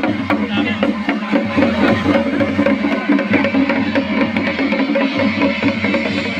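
Percussion-led music: drums with sharp, wood-block-like clacks keeping a fast, steady beat.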